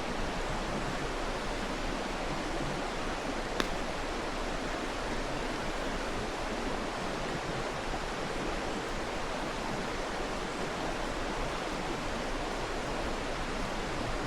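Mountain stream rushing steadily, with a single sharp pop from the burning wood fire about three and a half seconds in.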